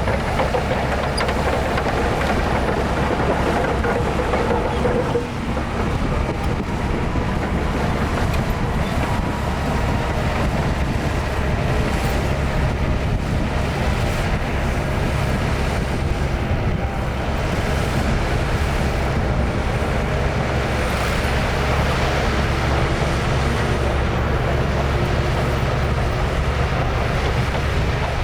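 Heavy diesel earthmoving machinery running steadily at a sand fill: a crawler bulldozer and dump trucks, with a constant low engine rumble and clatter.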